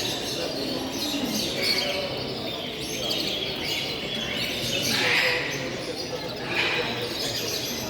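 Many caged show birds chirping and calling at once, a dense overlapping chatter with louder bursts now and then.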